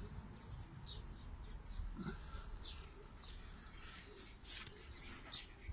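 Birds giving short, high chirps every half second or so, with a few sharp clicks about four to five seconds in.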